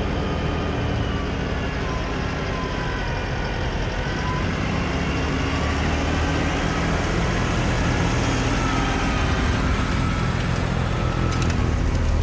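New Holland compact tractor's engine running steadily as the tractor drives slowly, with a faint wavering whine above it; it grows slightly louder toward the end.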